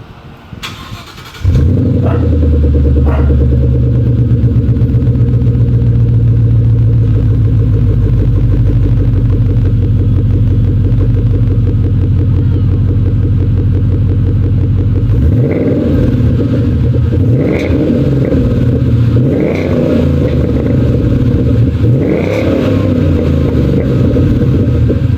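2014 Saleen Mustang's V8 running through Flowmaster mufflers and 4-inch quad exhaust tips. It starts about a second and a half in and idles steadily, then is revved in about four quick blips during the second half.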